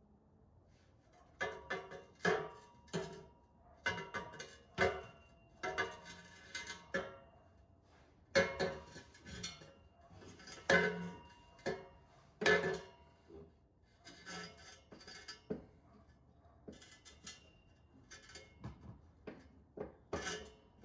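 Stock cat-back exhaust pipe and muffler knocking and clanking as it is handled and fitted under the car. The irregular metal knocks each ring briefly at the same few pitches.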